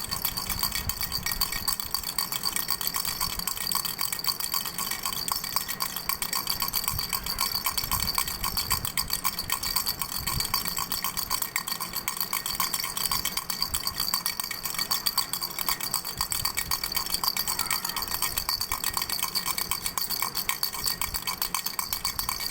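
Doraemon baby rattle shaken continuously: a fast, even stream of rattling clicks over a steady metallic ringing like a small bell.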